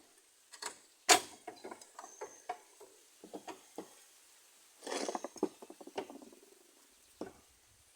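Metal knocks and clicks as a tool is worked against the sheet metal of a pickup's chassis, being bent upward: one sharp knock about a second in, then a run of lighter clicks and rattles, a longer scraping rasp around five seconds, and another knock near the end.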